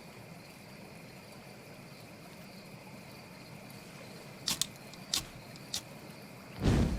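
Sound-designed riverside night ambience: a steady faint rush of flowing water with a thin, even insect chirring. Four short sharp clicks come about two-thirds of the way through, then a louder, brief thump with a low rumble at the very end.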